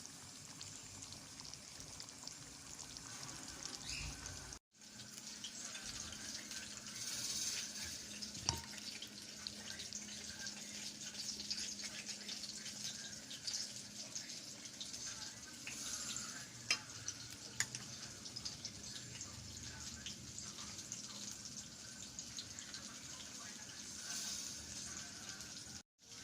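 Chicken and green peas cooking in a pan: a steady sizzle and simmer with fine crackles and occasional louder pops. The sound cuts out for an instant twice.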